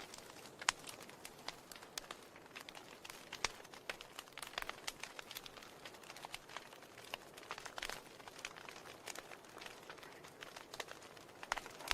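Fire burning and crackling: irregular sharp pops and snaps over a soft hiss.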